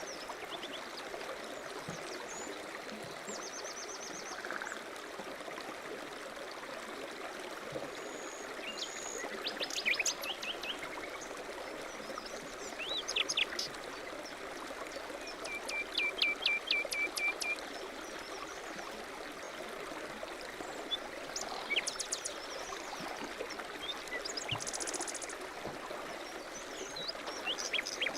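A mountain stream running steadily, with songbirds chirping on and off over it, including a quick even trill of about eight notes midway through.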